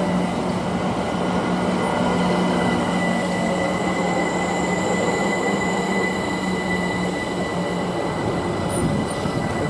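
Electric multiple-unit train running through the station: a steady rumble of wheels on rail with a constant motor whine.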